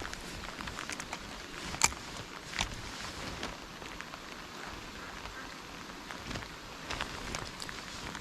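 Rain falling, with a steady hiss and many irregular ticks of individual drops striking close by. A sharper, louder click stands out about two seconds in.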